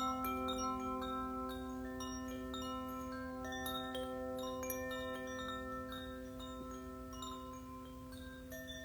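Chimes ringing in a sound bath: many small metal chime notes struck one after another and left to ring, over a steady low sustained tone.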